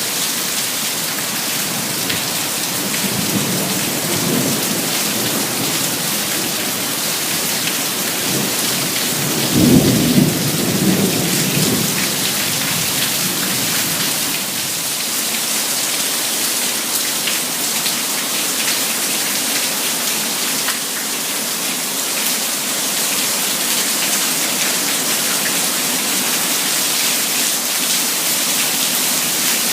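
Heavy rain pouring steadily, with a low rumble of thunder about four seconds in and a louder clap of thunder rolling on for about two seconds around ten seconds in.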